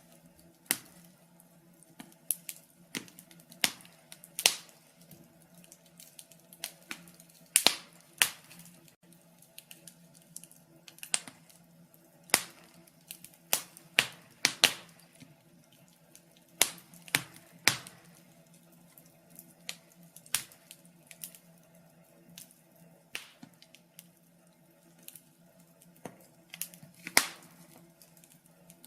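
Wood fire crackling in a fireplace: irregular sharp pops and snaps, several each second, a few loud ones standing out, over a faint steady hum.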